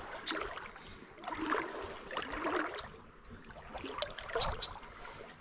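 Creek water sloshing and splashing in a few irregular swishes about a second apart, as someone moves through it.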